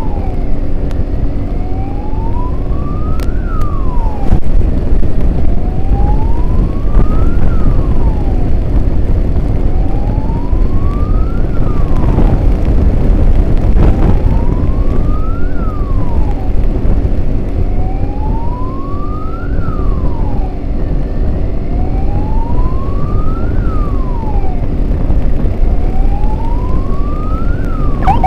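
Emergency siren wailing in a slow cycle, about every four seconds, each rise lasting about three seconds before a quick drop. Heavy, steady road and wind rumble from riding in traffic runs underneath.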